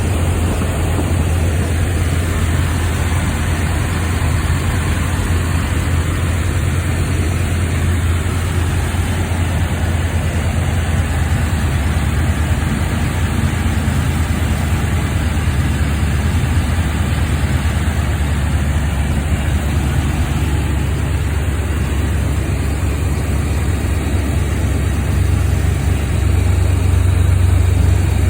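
1982 Chevrolet Camaro Z-28's 5.0-litre V8 idling steadily on a cold start. It grows slightly louder near the end.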